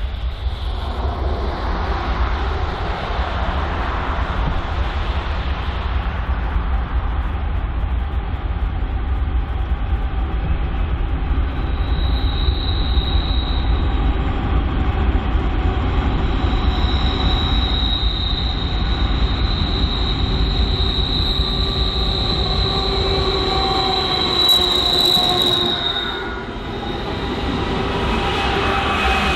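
BNSF freight train rolling past, with a steady rumble of cars on the rails. A high, steady wheel squeal sets in about twelve seconds in and dies away a few seconds before the end.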